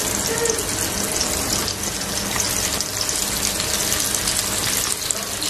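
Breadcrumb-coated mutton skewers frying in hot oil in a pan: a steady sizzling hiss with fine crackling.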